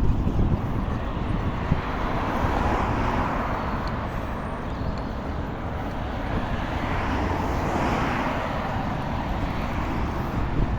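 Road traffic passing a moving bicycle, with two vehicles swelling up and fading away about three and eight seconds in, over a steady low rumble of wind on the microphone.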